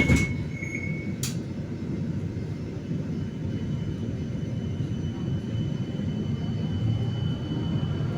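Steady low rumble inside a 71-931M Vityaz-M low-floor tram, with a sharp knock at the start and another about a second in. A faint steady high tone sets in about three seconds in.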